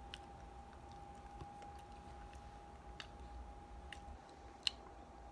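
A person chewing a mouthful of Chinese takeout, with faint wet mouth clicks and smacks, a sharper click near the end, over a steady faint hum.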